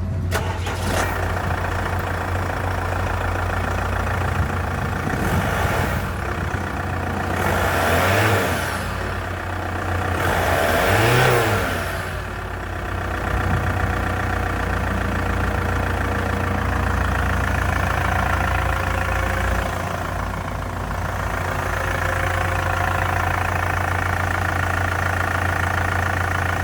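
2012 Holden Captiva engine running at a steady idle, revved up and back down several times in the middle, the two biggest revs about a third of the way in, then settling back to idle.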